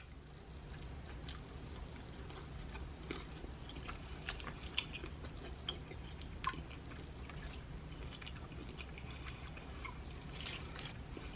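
Faint chewing of a piece of soft honey-almond nougat, with small wet clicks scattered throughout, over a steady low hum.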